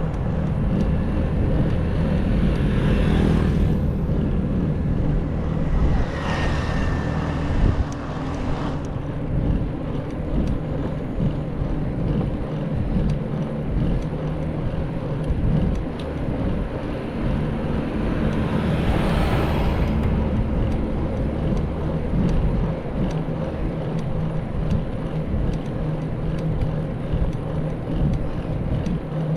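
Steady rumble of wind on the microphone and road noise while riding, with three swells of rushing noise, about one, seven and nineteen seconds in, like vehicles going past.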